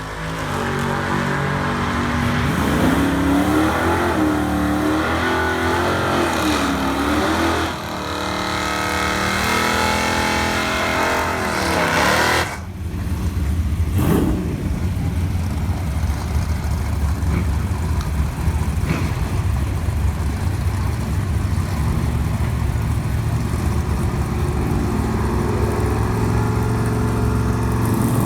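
Big-block V8 of a Barracuda drag car revving up and down, then accelerating hard with its pitch climbing. The pitch drops sharply about twelve seconds in, climbs again briefly, and the engine then runs on steadily.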